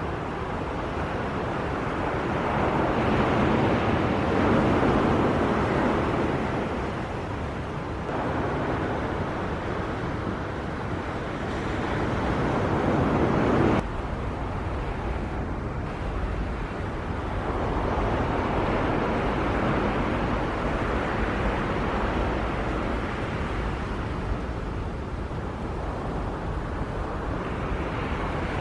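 Jet airliner engine noise, a broad rushing sound that swells and fades, mixed with wind on the microphone. The sound changes abruptly about 14 seconds in.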